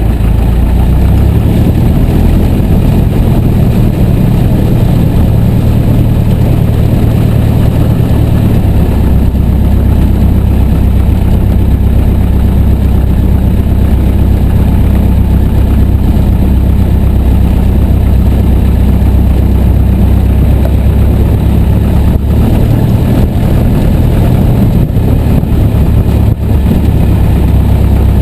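Piper J3 Cub's Continental A-65 four-cylinder engine running steadily, its note shifting slightly about nine seconds in and again a little past twenty seconds.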